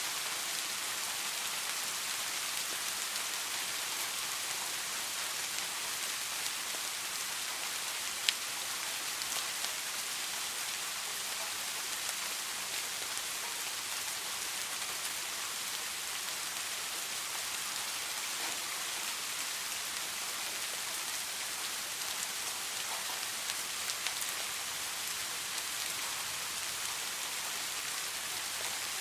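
Steady soft rain falling, a dense even patter of drops with an occasional sharper drop, one of which stands out about eight seconds in.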